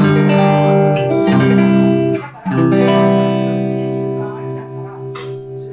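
Electric guitar, a Telecaster played through a Roland JC-120 amp, strummed in sustained chords. A new chord comes in about 1.3 s in, and after a short break the last chord, about 2.5 s in, rings on and slowly fades.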